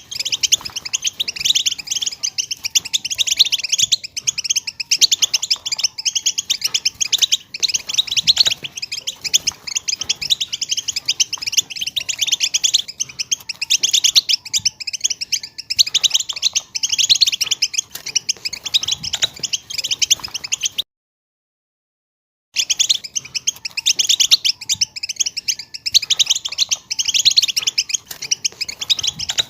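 European goldfinch twittering in a dense, rapid chatter of high chirps, broken by a sudden complete silence of about a second and a half near the middle.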